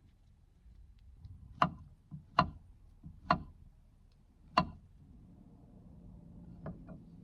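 Four sharp knocks about a second apart, then two fainter ones near the end.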